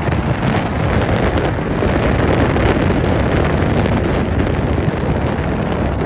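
Strong blizzard wind blowing over the microphone, a loud, steady noise.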